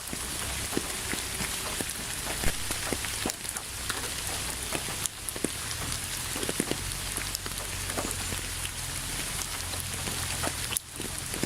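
Steady rain falling: a dense, even hiss with many separate drops ticking on a surface. It dips briefly about a second before the end.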